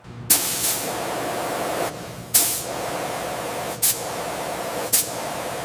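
Hissing spray of a pressurised jet, starting suddenly and surging sharply three more times about one to one and a half seconds apart.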